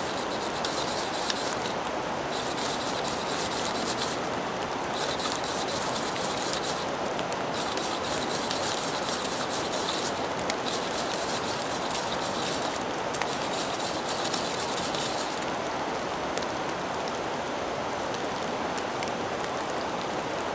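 Steady rain, with a series of rasping scrapes, each lasting one to two seconds with short gaps between, that stop about fifteen seconds in.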